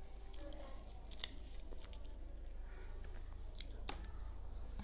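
A person chewing and biting into pav (soft bread roll) dipped in bhaji, with a few sharp mouth clicks, the loudest about a second in.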